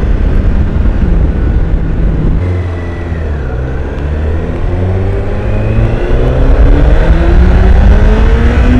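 2016 Honda CBR1000RR SP's inline-four engine through its stock exhaust, heard from the rider's position with wind noise. The revs dip about two seconds in, then climb steadily as the bike pulls hard under acceleration.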